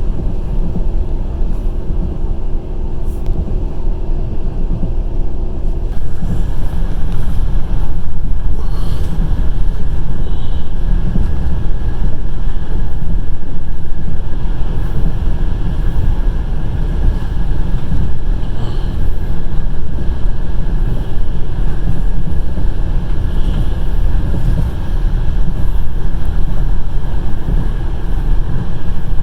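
Steady, loud rumble of a passenger train running at speed, heard from inside the carriage: wheels on the rails and rushing air. A faint steady hum under it stops about six seconds in.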